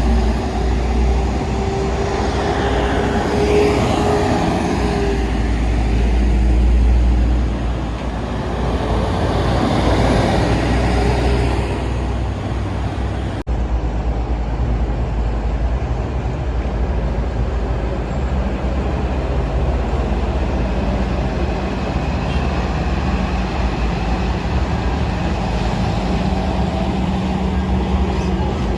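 Heavy trucks and other road traffic passing at a junction, diesel engines running with a steady low rumble and a whine for the first few seconds. The sound changes suddenly about thirteen seconds in, then the traffic noise carries on.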